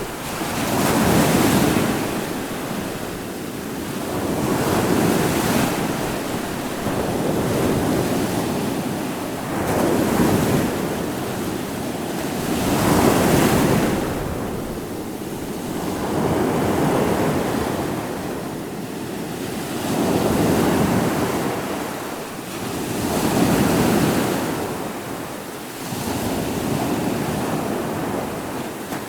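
Ocean waves breaking on the shore, the surf swelling and falling back about every three to four seconds in a steady rhythm.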